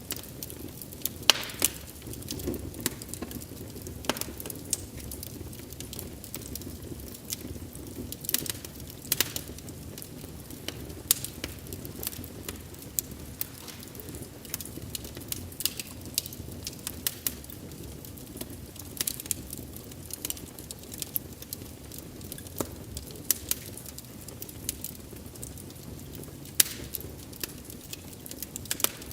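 Wood fire crackling: irregular sharp pops and snaps, sometimes several in a second, over a steady low rush of burning.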